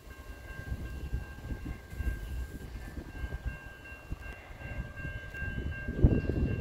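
Indian Pacific passenger train approaching from a distance: a low, uneven rumble that grows louder toward the end.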